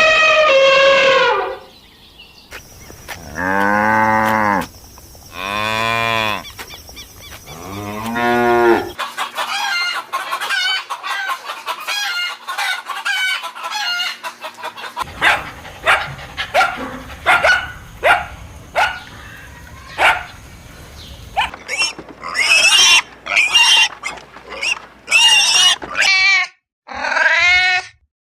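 A sequence of farm animal calls. First come a few long, drawn-out calls that rise and fall in pitch, typical of cattle lowing. After that come many short, rapid calls of poultry clucking and squawking.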